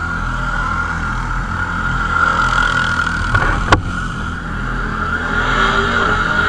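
Car driving along the road, a steady rumble of engine and road noise, with a single sharp click a little past the middle.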